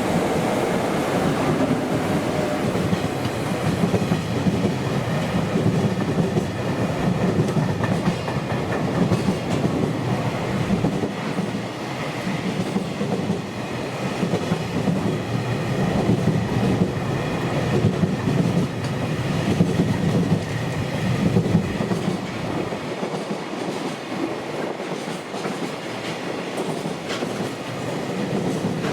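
Freight train rolling past, its wagon wheels clattering over the rail joints in a repeating rhythm.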